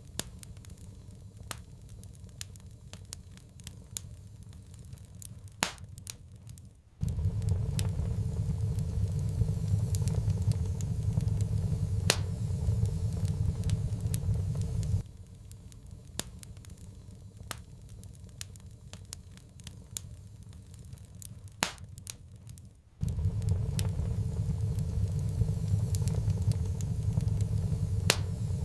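Wood fire crackling, with scattered sharp pops and snaps. A low roar cuts in abruptly about a quarter of the way in, stops just past halfway, and cuts in again about four-fifths of the way through.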